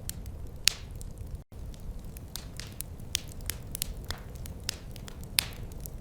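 Wood fire in a fireplace crackling, with many small snaps and a couple of louder pops, one shortly after the start and one near the end, over a steady low rumble. The sound cuts out for an instant about a second and a half in.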